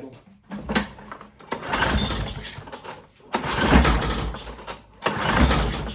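Lawn mower's recoil starter pulled three times, the engine cranking with each pull but not catching, with the throttle set at idle.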